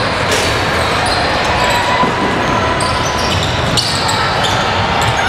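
Basketball bouncing on a gym floor during a game, over a steady din of spectators' voices, with short high squeaks scattered through it.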